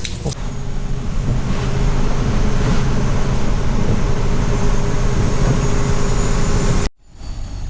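Truck running on the road, a steady engine drone with road noise that cuts off suddenly near the end.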